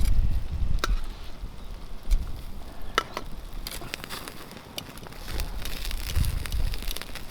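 Wood campfire crackling, with scattered sharp pops and snaps over a low rumble that swells in the first second and again near the end.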